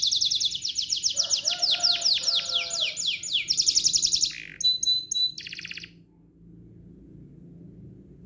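A songbird singing a fast trill of high notes that sweep downward, about ten a second. It breaks into a few separate notes and stops about six seconds in, leaving a faint low hum.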